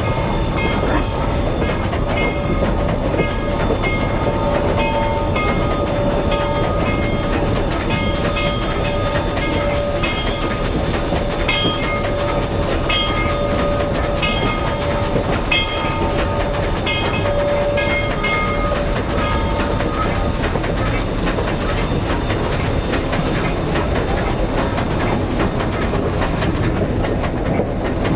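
Excursion train rolling steadily, heard from an open observation car: a continuous rumble with wheels clicking over the rails. A thin squealing tone comes and goes over the first two-thirds, then dies away.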